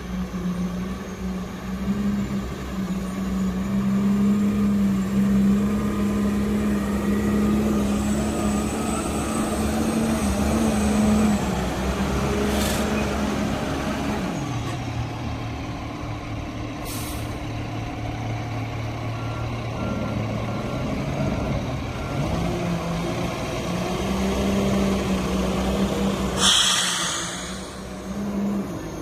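Cummins diesel engine of a Crane Carrier rear-load garbage truck running. Its speed drops about halfway through and rises again a few seconds before the end. Short bursts of air hiss, the loudest near the end, and a row of faint beeps in the middle.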